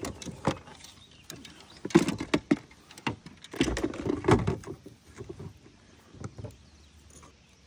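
Scattered knocks and clatters of gear against a kayak hull. They are loudest in two clusters, about two and about four seconds in, then drop to a few single clicks.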